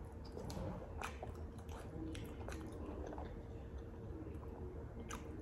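Quiet, wet mouth sounds of a person eating crab: chewing, lip smacks and sucking sauce off the fingers. Scattered small clicks run through it, with a sharper one about a second in and another near the end.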